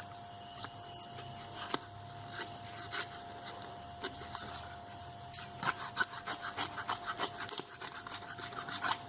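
Card stock being cut into a narrow strip: a few scattered faint clicks, then from about halfway in a quick run of small crisp cutting sounds, several a second.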